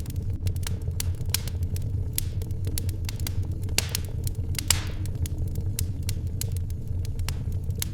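Wood fire crackling in a fireplace: irregular sharp pops and snaps over a steady low rumble, with a brief hiss swelling about four and a half seconds in.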